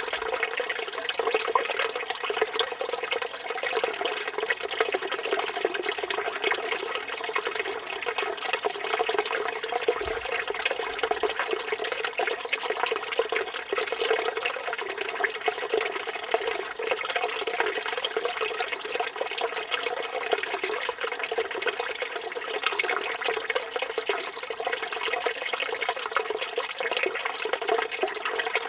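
Steady stream of water pouring from a village fountain's spout and splashing into the basin below.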